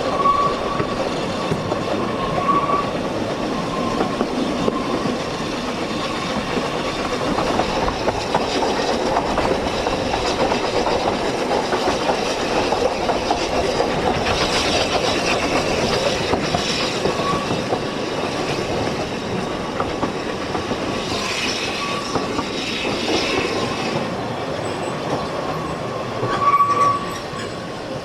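Ffestiniog Railway narrow-gauge train running along the track, its wheels rumbling steadily on the rails. A high squeal from the wheels on the curves comes and goes, with a brief louder squeal near the end.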